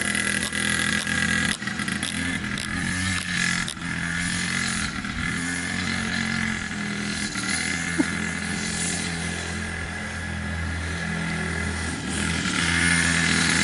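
Cheap 50cc two-stroke engine on a drift trike running steadily under load as it climbs a hill, getting louder near the end. It does not handle the hill too well and lacks power.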